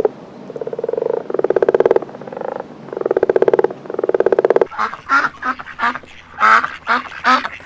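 Four long, pulsing animal calls of unknown kind, each under a second. About five seconds in, they give way to rapid, repeated duck quacking.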